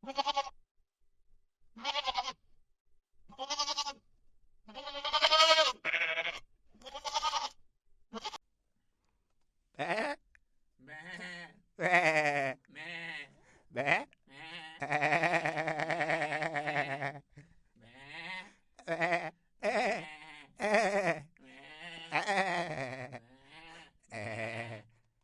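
Goats bleating over and over, one wavering bleat after another at different pitches. The early calls are short and higher; later ones are longer and deeper, and the longest, in the middle, is held for about two seconds.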